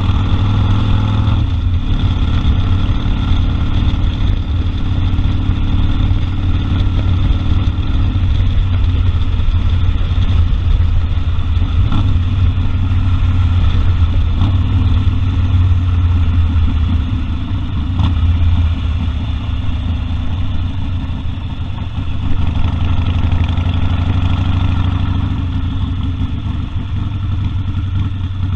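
Harley-Davidson Sportster 1200 Custom's air-cooled V-twin engine running steadily while the bike is ridden, a little quieter for a few seconds past the middle.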